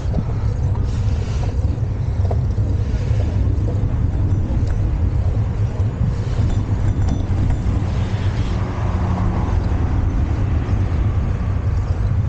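Steady low rumble of wind and road noise on the microphone of a moving bicycle.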